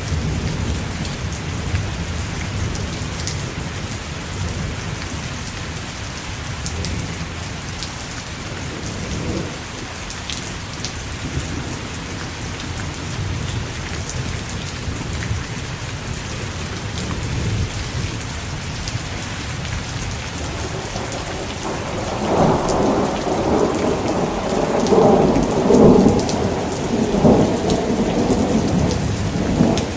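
Steady rain falling, with a low thunder rumble underneath. About two-thirds of the way in, a long roll of thunder swells up and stays loud until just before the end.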